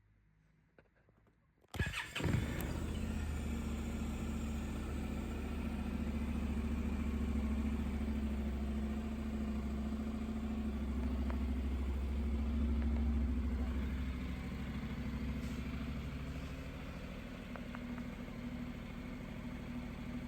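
Honda NC750X's parallel-twin engine started a little under two seconds in, catching at once, then idling steadily.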